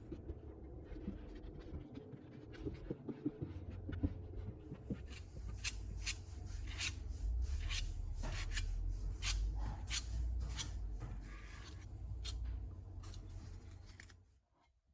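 Hand-tool scraping and rubbing on a part of an old coffee grinder being restored: light scratching at first, then a run of sharp, irregular strokes about one a second with a high hiss, stopping shortly before the end.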